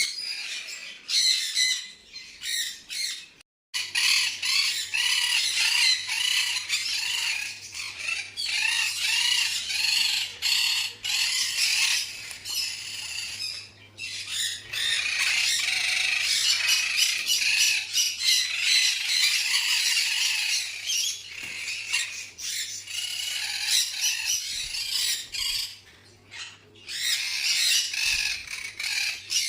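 Many small caged parrots squawking and chattering at once in a dense, continuous din, broken off briefly about three and a half seconds in.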